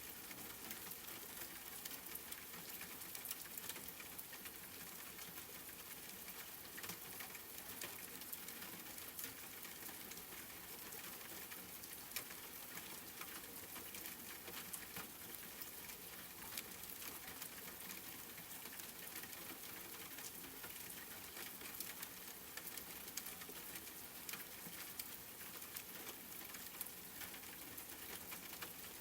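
Rain pattering steadily: a constant hiss scattered with many small, sharp drop ticks.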